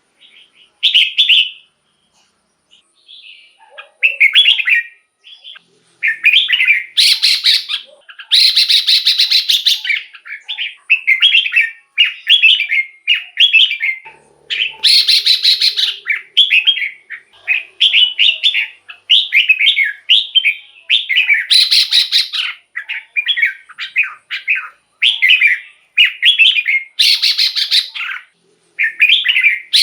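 Red-whiskered bulbul singing: short, repeated warbled phrases, sparse at first and almost continuous from about six seconds in, with harsher rasping phrases mixed in.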